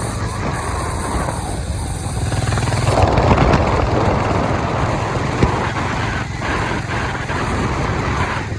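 Harley-Davidson X440 single-cylinder engine running steadily while riding, with wind rushing over the microphone. A louder rush of noise sets in about three seconds in and eases off a couple of seconds later.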